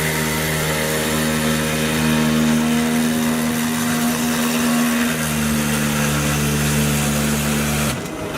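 Small 3-axis CNC milling machine running, its spindle and drive motors giving a steady droning hum over a high hiss. The hum's pitch steps slightly about five seconds in, and the sound changes abruptly to a thinner, quieter one just before the end.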